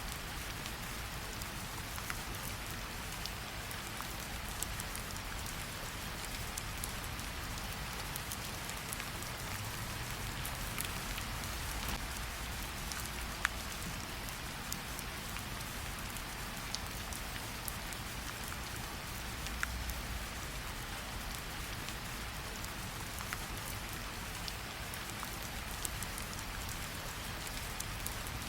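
Steady rain with a low rumble underneath and scattered sharp crackles from a wood fire in a fireplace; one pop stands out about halfway through.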